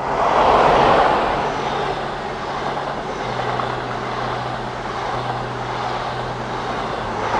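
Diesel High Speed Train passing close by at speed: the leading power car goes by with a loud rush about half a second in, then a steady roar of coaches and wheels on the rails.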